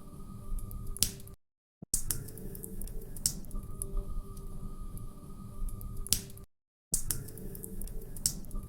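Wood fire crackling in a fireplace: irregular sharp pops and snaps over a low rumble of burning. The sound cuts out completely twice for about half a second.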